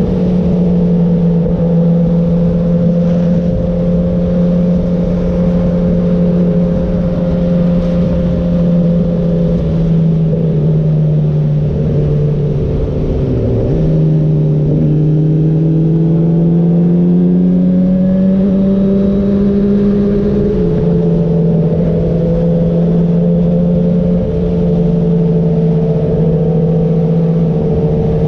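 Motorcycle engine running under way, heard from the bike itself with wind noise over the microphone. The engine note holds steady, dips briefly about halfway through, climbs for several seconds, then drops suddenly about two-thirds of the way through, as at a gear change.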